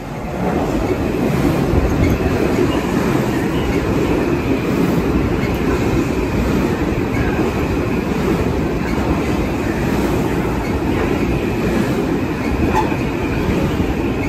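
A Metro-North M8 electric multiple-unit commuter train passing close along the platform: a loud, steady rumble of steel wheels on rail that swells up about half a second in and holds.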